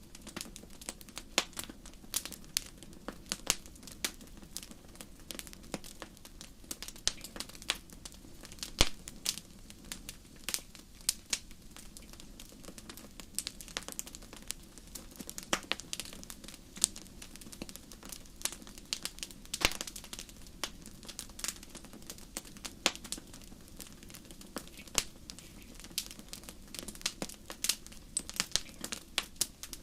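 Wood fire in a fireplace crackling: irregular sharp pops and snaps, several a second and of varying loudness, over a faint steady low background.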